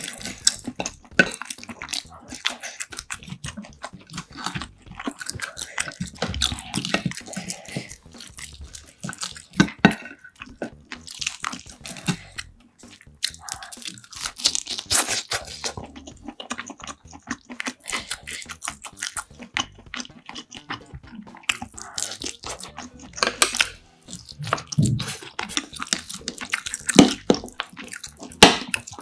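Close-miked eating sounds: wet chewing and smacking with many small clicks and crackles. Chopsticks and a spoon tap and scrape on ceramic dishes, and near the end a spoon stirs rice in a bowl.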